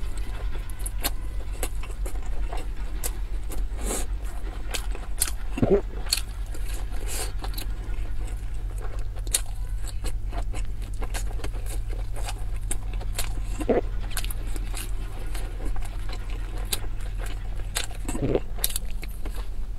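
Close-miked chewing of soft pan-fried dumplings: wet, sticky mouth clicks and smacks at an uneven pace, over a steady low hum. Three brief hums from the throat, about six, fourteen and eighteen seconds in.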